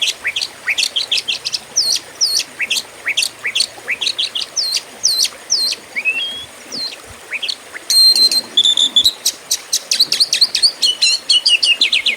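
Oriental magpie-robin (kacer) singing: a rapid run of short, sweeping whistled notes, turning into a denser burst of fast, sharp repeated notes about eight seconds in.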